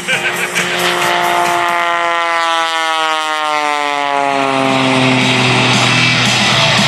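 Pitts S-1-11B aerobatic biplane passing by at speed, its engine and propeller note falling steadily in pitch over about four seconds as it goes past, then holding a lower steady drone as it pulls away.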